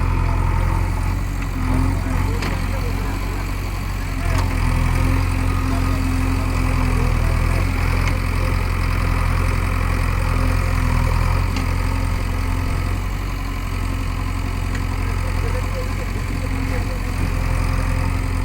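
Heavy diesel engine running at a steady, even pitch, with small swells in loudness.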